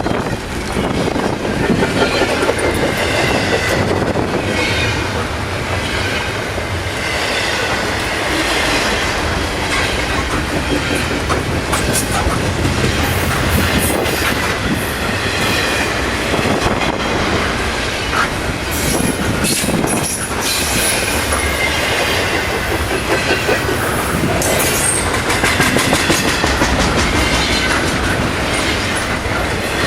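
Double-stack intermodal freight cars rolling past: a steady rumble of steel wheels with repeated clickety-clack over rail joints and intermittent high-pitched wheel squeal.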